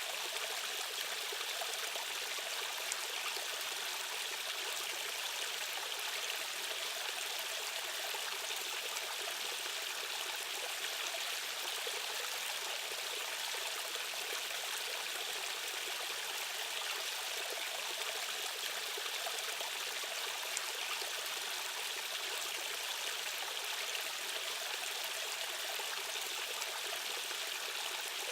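Rushing water of a stream's current, flowing steadily and evenly with a bright hiss and little deep rumble.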